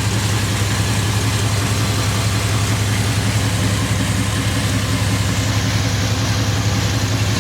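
2001 Dodge Ram 1500 pickup's engine idling steadily with a constant low hum.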